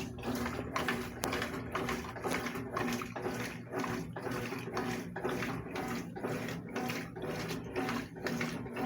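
Consul CWS washing machine agitating a load of towels: water sloshing in a regular rhythm about twice a second over a steady motor hum.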